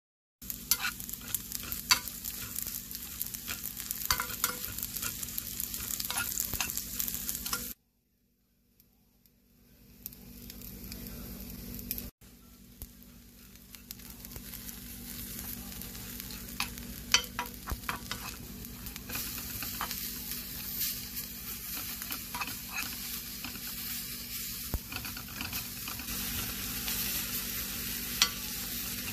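Dried small anchovies stir-frying and sizzling in a nonstick frying pan, with a metal spoon scraping and clicking against the pan as they are stirred. The sound cuts out about a third of the way in and fades back up over a couple of seconds.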